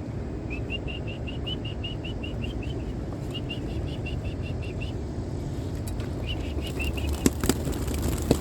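Wings of a flock of young racing pigeons flapping as they take off on release, with three quick runs of rapid high bird chirps and a couple of sharp knocks near the end.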